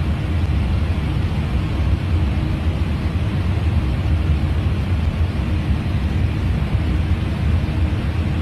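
Steady low engine drone of a light aircraft, heard from inside the cabin, with no change in pitch or level.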